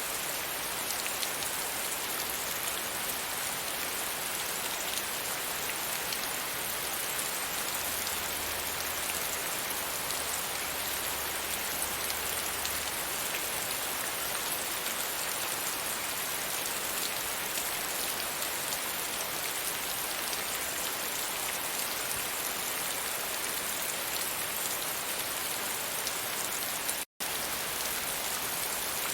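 Steady rain falling on a surface, an even, dense patter. It cuts out for an instant near the end.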